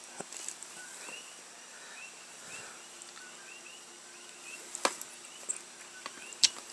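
Quiet background with small, repeated high chirps, like birds, and a few sharp clicks; the loudest clicks come about five seconds in and near the end.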